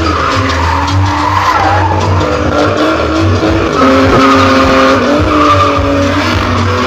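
Car drifting: its engine running hard at high revs while its tyres squeal and skid.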